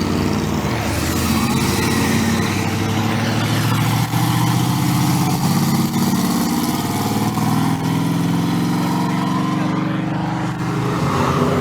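Car engine revving and accelerating as the car drives off, its pitch rising and falling several times.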